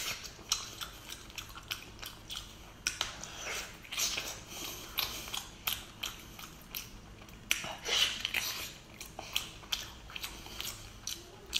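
Close-up mouth sounds of biting into and chewing a thick slab of salmon: irregular wet clicks and smacks, several a second, coming in clusters.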